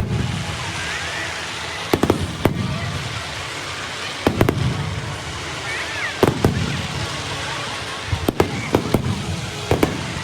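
Aerial fireworks display: shells burst with sharp bangs every couple of seconds, sometimes in quick pairs, and each bang is followed by a low rolling rumble.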